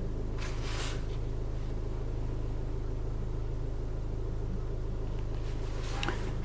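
Steady low hum of a Land Rover Discovery Sport's 2.0 TD4 four-cylinder turbo diesel idling, heard from inside the cabin. Two brief soft rustles come through, one about half a second in and one near the end.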